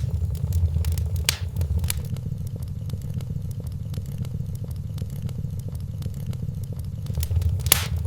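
Wood fire crackling in a fireplace: a dense run of small crackles over a steady low rumble of the flames, with a few louder pops, two in the first two seconds and one near the end.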